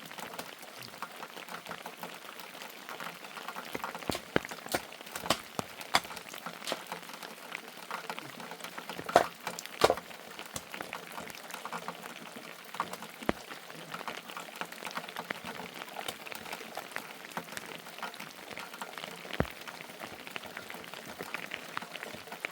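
Rain falling steadily, with irregular sharp drops and taps striking a surface, a few louder ones about nine to ten seconds in.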